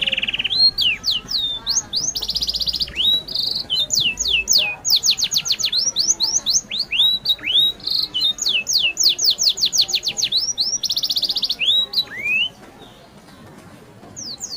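Bird song: fast runs of high whistles, each sweeping downward, mixed with short buzzy notes. It stops about two seconds before the end.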